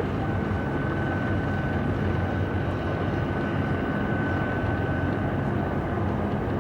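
Steady engine drone with a constant high tone over it, running evenly without change.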